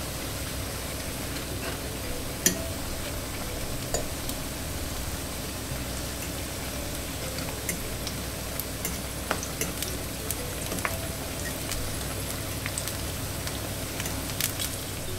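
Plantain slices sizzling steadily in hot oil in a frying pan, with scattered sharp clicks of a metal fork against the pan as the slices are turned over.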